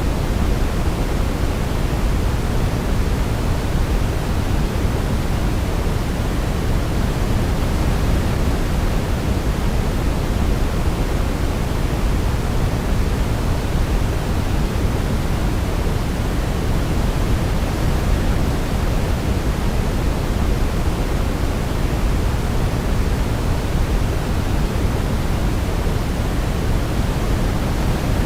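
Steady sleep-aid noise: an even, unbroken hiss weighted toward the deep end, with no melody heard.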